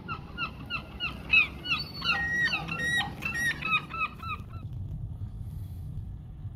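Birds calling in a fast run of short, repeated calls, about three a second, with several birds overlapping in the middle. The calls stop about four and a half seconds in, leaving a low, steady rumble.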